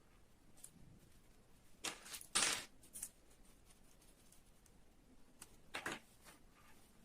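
Small hard parts clicking and clattering as they are handled, with a cluster of clicks about two seconds in and another short clatter near six seconds.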